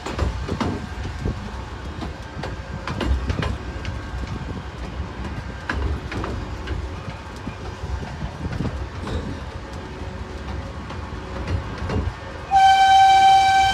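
Miniature railway train rolling along the track, a rumble with irregular clicks of the wheels over rail joints. Near the end the locomotive sounds one steady warning blast of just over a second, the loudest sound.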